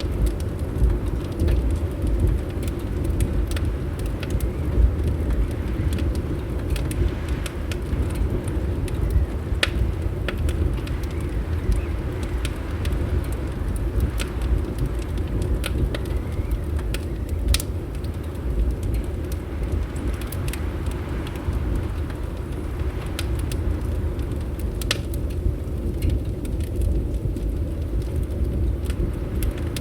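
Fireplace fire crackling, with scattered sharp pops and snaps over a steady low rumble.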